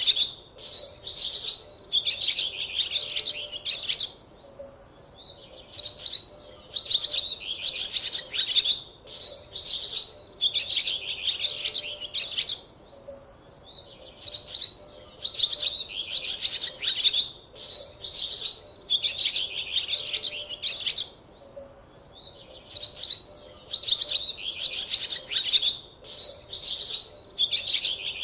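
Small birds chirping and twittering in repeated bursts of a second or two, with short pauses between.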